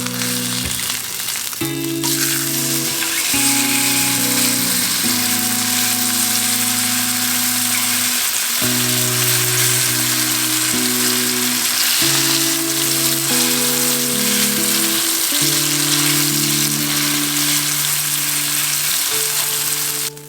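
Steak sizzling steadily in a hot pan, a dense crackling hiss that cuts off suddenly at the end.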